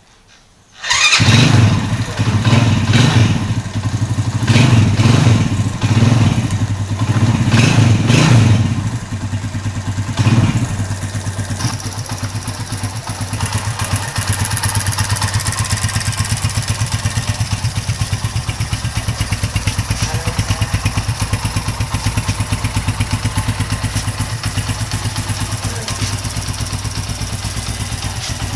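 Win Detech 110 motorcycle's four-stroke single-cylinder engine cold-starting about a second in. It is revved in several blips for about ten seconds, then settles to a steady idle.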